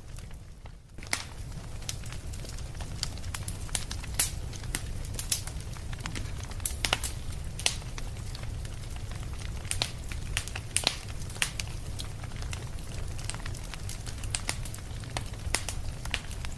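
Fireplace fire crackling, with irregular sharp pops over a steady low rumble; the sound dips briefly about a second in.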